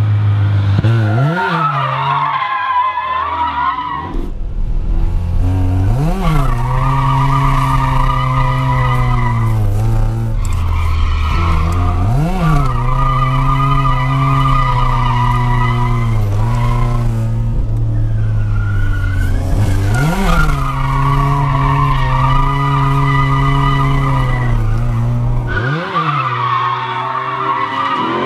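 Mazda RX-7's two-rotor rotary engine held high in the revs during drifting, its pitch spiking sharply up and down five times, with tires squealing throughout. For most of the stretch it is heard from inside the car, with a deep cabin rumble underneath.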